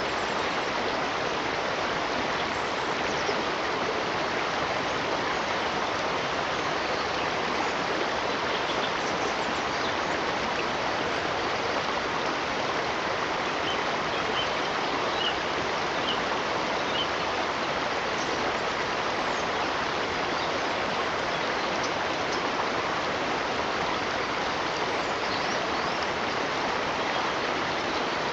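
Stream of running water, a steady, even rush of flowing water.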